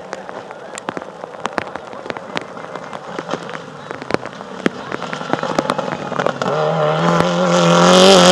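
Rally car approaching: scattered sharp crackling clicks over a faint engine hum, then about two seconds from the end the engine note comes in strongly and grows steadily louder as the car nears.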